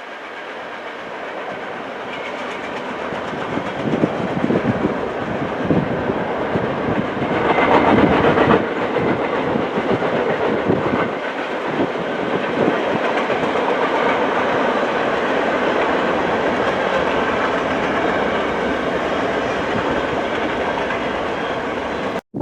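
Train rolling past on the CN line, growing louder over the first several seconds and then holding steady, with wheels clicking over the rails. The sound cuts off abruptly near the end.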